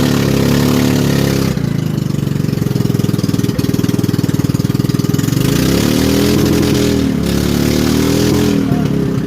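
Small river boat's motor running hard while pushing up a rapid, easing back about a second and a half in, then revving up and down twice near the end.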